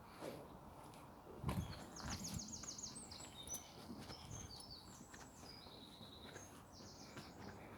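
A songbird singing a fast, varied song of rapid repeated high notes and short trills for several seconds. There is a soft low thump about a second and a half in.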